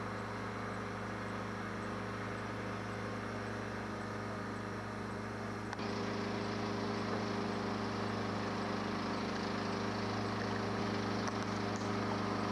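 Engine of a payloader working at the beach, running steadily with a low hum, a little louder from about six seconds in.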